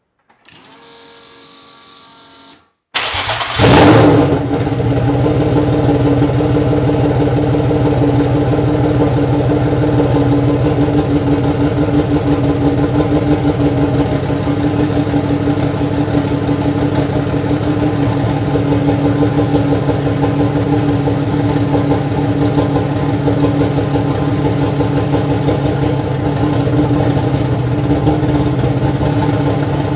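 Turbocharged non-VANOS BMW M50 inline-six firing up about three seconds in with a short rev flare, then idling steadily. It is running on wasted-spark ignition, as it will not run with the cam sensor in sequential mode.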